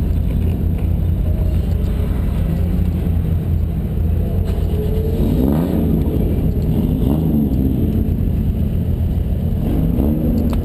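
Toyota Mark II's turbocharged 1JZ straight-six engine idling, heard from inside the cabin as a steady low rumble. The pitch briefly swells up and down a few times around the middle and again near the end.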